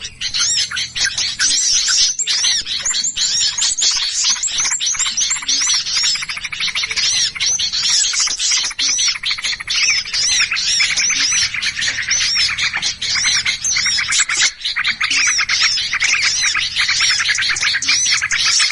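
Bird-lure recording of a flock of small birds calling in agitation: a dense, unbroken chatter of many overlapping high chirps and quick arching notes. It is the excited alarm or mobbing chorus that trappers play to draw small birds in.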